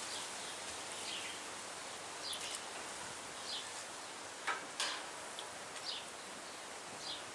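Steady outdoor background hiss with a small bird's short high chirps about once a second, and a couple of sharp clicks about four and a half seconds in.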